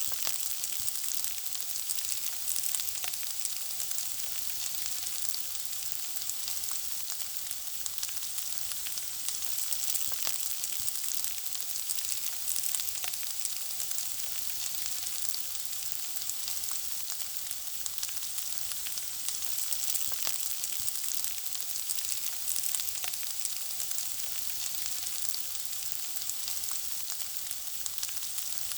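Food frying in hot oil: a steady sizzling hiss with continual small crackles and pops.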